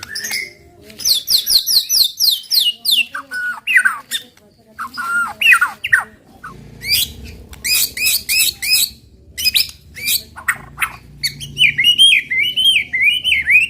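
White-rumped shama (murai batu) singing a loud, varied "tembakan" song, the provoking song used to get other shamas singing. It opens with a quick run of falling notes about a second in, then sweeping whistles and clustered chatter, and ends with a string of quick rising-and-falling notes.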